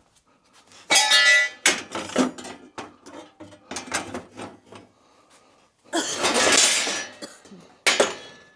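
Metal bumper parts and brackets clanking and clattering as they are handled. There is a loud ringing clang about a second in, scattered knocks after it, a harsh noisy clatter lasting about a second around six seconds in, and another sharp clank near the end.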